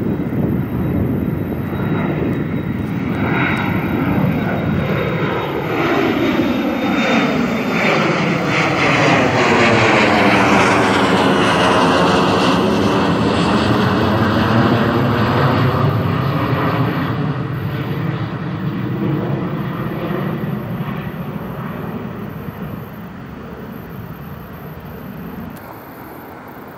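Departing airliner's engines passing overhead on the climb-out. The roar builds, is loudest about halfway through, then fades. A high whine in the first few seconds slides slightly down in pitch.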